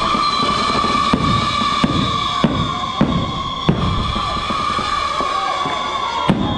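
Festival fireworks going off in a loud display: sharp bangs at irregular intervals, roughly one every half second to second, over a steady high tone that holds throughout.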